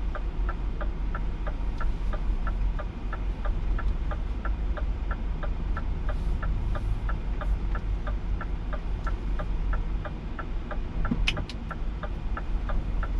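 Indicator ticking steadily, about three ticks a second, inside a Scania truck's cab, over the low steady run of the truck's diesel engine. A single sharper click about eleven seconds in.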